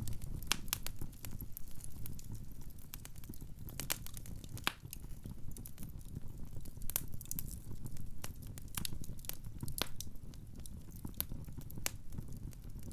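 Wood fire crackling in a fireplace: many irregular sharp pops and snaps over a steady low rumble of the burning logs.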